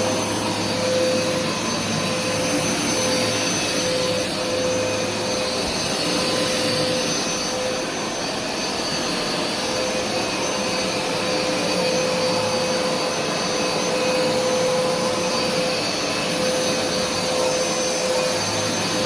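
Hoover SmartWash carpet cleaner running steadily as it water-extracts carpet: a constant suction-motor rush with a steady whining tone.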